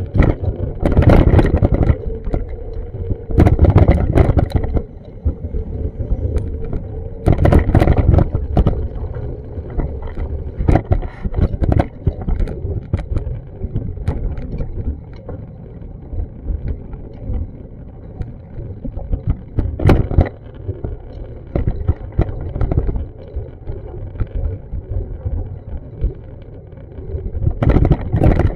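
Outdoor street ambience with a steady low background and several loud, irregular low rumbling bursts, each a second or two long.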